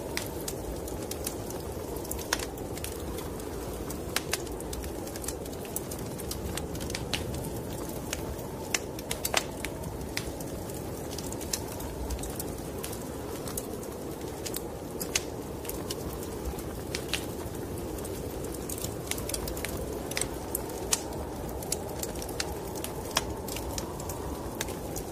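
Wood fire crackling, with frequent sharp pops and snaps, over a steady low rush of wind from a snowstorm.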